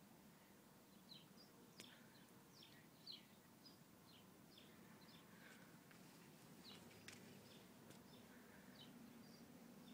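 Faint outdoor quiet with a small bird chirping: short high chirps that drop in pitch, about two or three a second, and a couple of soft clicks.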